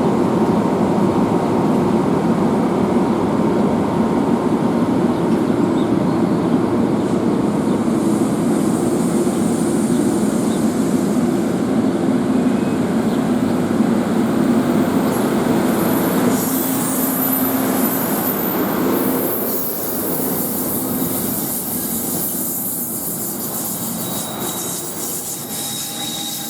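NJ Transit train running through the curved station, a steady loud rumble of wheels on rail. Sixteen seconds or so in, high-pitched wheel squeal joins from the curve, and the train sound then gets somewhat quieter.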